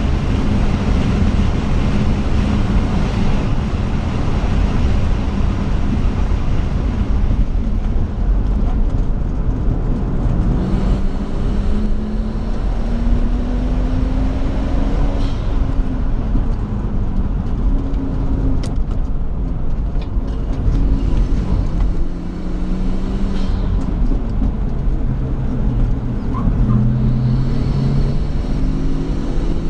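Nissan Skyline R34 GT-T's turbocharged straight-six under hard driving, heard from inside the cabin over heavy road and wind noise. Several times the engine note climbs through the revs and then drops back, as the car accelerates, shifts and slows for corners.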